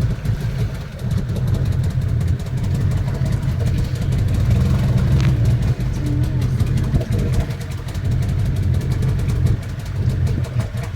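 Glass-bottom boat's engine running steadily with a low drone.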